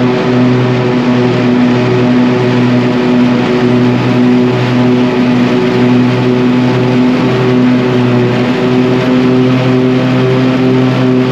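Tractor engine running steadily at a constant speed with an even hum.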